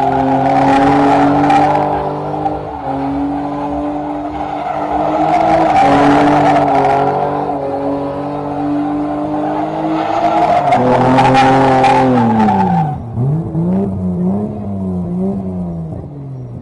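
A car drifting, its engine held high in the revs while the tyres squeal and skid in three long surges. About thirteen seconds in the revs drop sharply, and the engine is then blipped up and down a few times.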